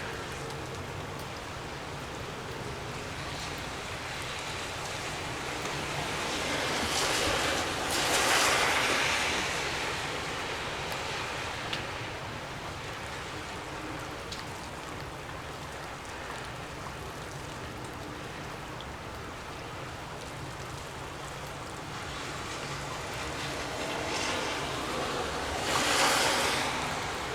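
Gusty wind blowing steadily as a rushing noise, swelling louder in two stronger gusts, about a third of the way in and near the end.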